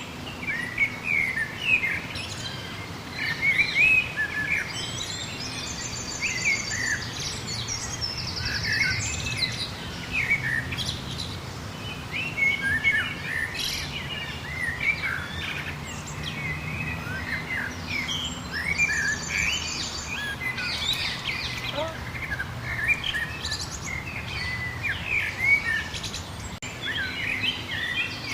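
Chorus of many small songbirds chirping and calling over one another, with a fast, high trill heard twice. A faint steady low hum runs underneath.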